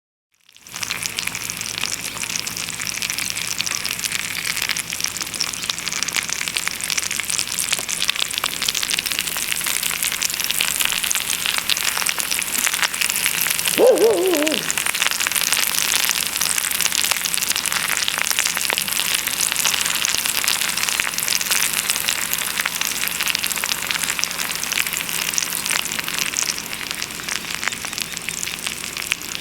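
Bacon and eggs sizzling and spitting in a hot frying pan over a wood-fired rocket stove, a dense steady crackling hiss that starts abruptly about half a second in. About halfway through there is one short squeak falling in pitch.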